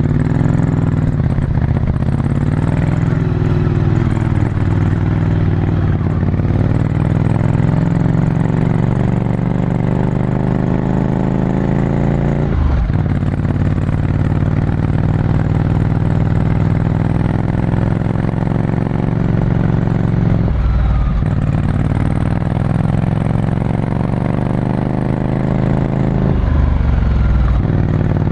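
Ducati Scrambler Desert Sled's air-cooled 803 cc L-twin running through a full Termignoni exhaust, heard from on board under steady throttle, its note rising and falling. The note breaks off briefly three times, near the middle, about two-thirds in and near the end.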